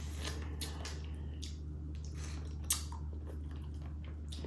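A person eating close to the microphone: chewing and biting, with short crunches and mouth clicks, one sharper click a little before three seconds in. A steady low hum runs underneath.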